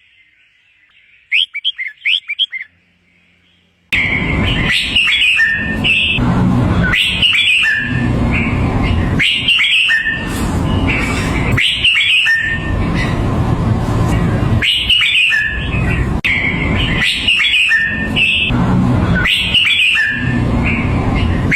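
Red-whiskered bulbul singing short, whistled phrases: a clean burst of song about a second in, then after a short pause a noisier recording in which the song phrases repeat about every two seconds over a steady hiss and low rumble.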